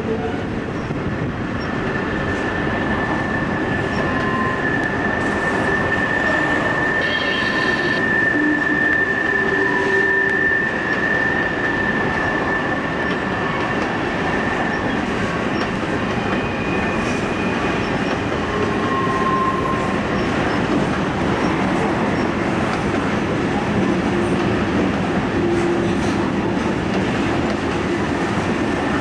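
Freight train rolling past on a curve: a steady rumble and clatter of the cars, with the wheels squealing against the rail. One high squeal starts about two seconds in and holds for some ten seconds, and shorter, fainter squeals come and go after it.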